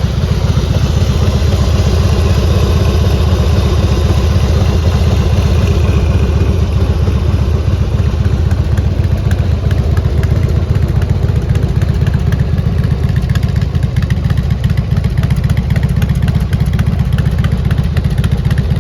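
Motorcycle engine idling steadily through a tuned exhaust, a loud, even rumble with no revving.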